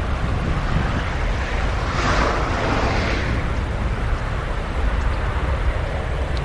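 Roar of a Boeing 737-800's CFM56-7B jet engines at takeoff thrust, mixed with wind buffeting the microphone as a heavy low rumble. The roar swells briefly about two seconds in.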